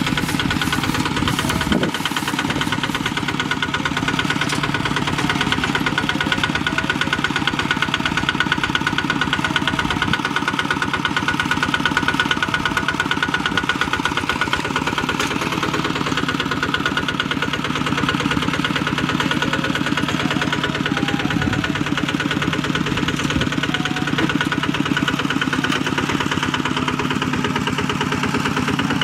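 Bulldozer's diesel engine running steadily with an even, rapid firing beat.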